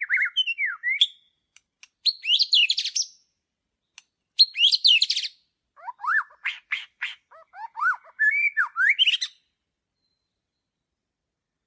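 Songbird singing in short, varied phrases of quick rising and falling whistles, chirps and buzzy trills, four or five phrases, stopping about nine and a half seconds in.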